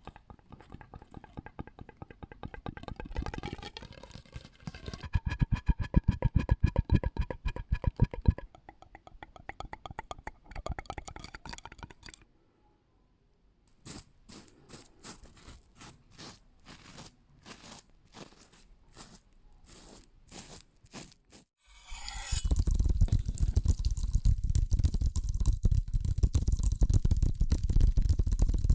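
A run of close-miked ASMR trigger sounds that changes every few seconds. Quick tapping with a faint ringing tone comes first, then sparser sharp clicks and taps after a brief silence. From about 22 seconds a loud, dense crunching and rustling takes over.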